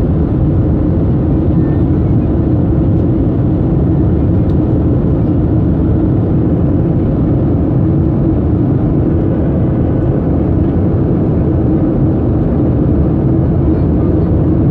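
Boeing 737 cabin noise in flight after takeoff: the jet engines and the air rushing past the fuselage make a steady, deep rumble with a faint even hum.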